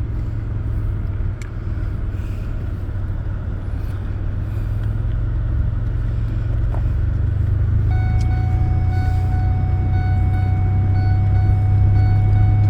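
Motor vehicle running, a steady low engine drone that grows slowly louder. About two-thirds of the way through, a steady high tone joins it and holds.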